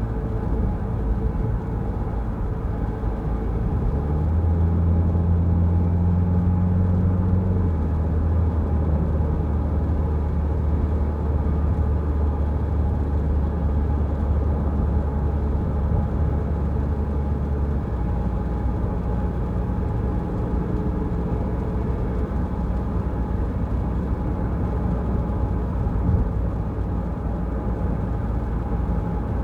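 Car driving on a wet road: steady engine and tyre noise, with a deeper, stronger engine hum from about 4 to 18 seconds in.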